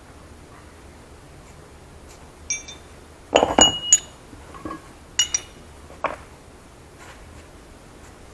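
Metal clinking and knocking: a handful of sharp strikes, several with a brief bright ring, loudest in a quick cluster about three and a half seconds in, then a few lighter knocks.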